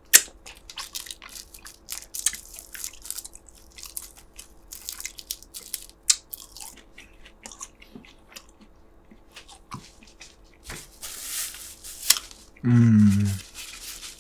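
A man chewing and eating close to the microphone, with many wet mouth clicks and smacks. Near the end comes a short, low hummed sound of appreciation.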